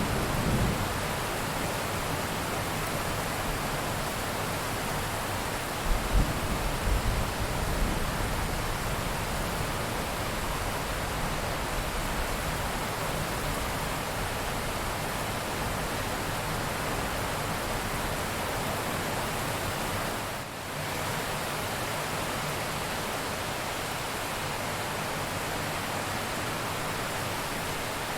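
Steady, dense rain hiss. The low rumble of thunder fades out at the start, and a shorter low thunder rumble comes about six seconds in. The level dips briefly about twenty seconds in.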